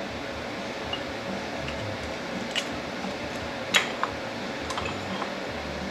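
A few light clicks and taps of metal transmission parts being handled on the bench, the loudest a little under four seconds in, over a steady background hiss.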